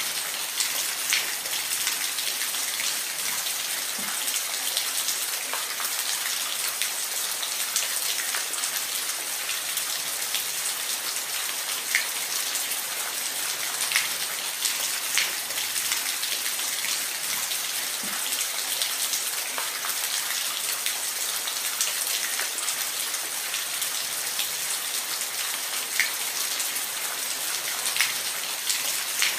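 Steady rush of falling water, a high, even hiss with scattered small splashes and drips ticking through it.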